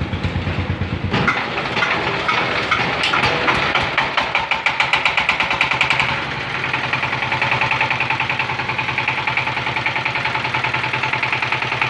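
Single-cylinder diesel engine of a 16-horsepower Saifeng power tiller running with an even beat. The sound changes about a second in, the beats are strongest between about three and six seconds, and after that the engine settles into a steadier run.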